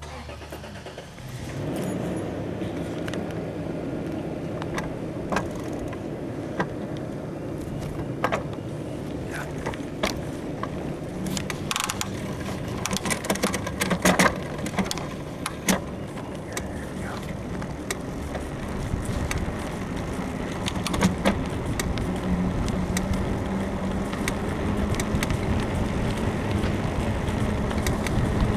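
Full-suspension bicycle being ridden: a steady rush of wind and tyre noise sets in about two seconds in, with irregular clicks and creaks from the frame, loudest around the middle. The uploader thinks the creaking is a worn suspension bushing in the frame.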